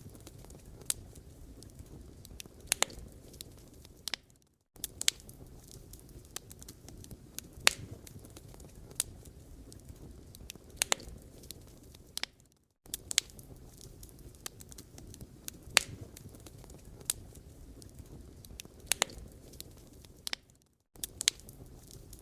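Wood fire crackling in a fireplace: irregular sharp pops and snaps over a low, steady rumble of burning. Three brief drops to near silence come about every eight seconds.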